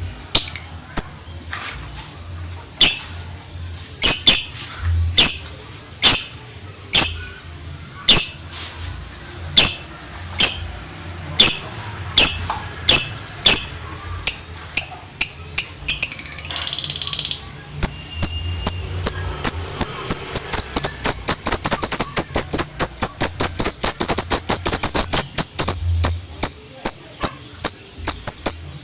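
Lovebird singing in the rapid 'ngetik' ticking style: sharp, high chirps about once a second at first, then speeding up into a fast, loud, continuous run of ticks over the last third.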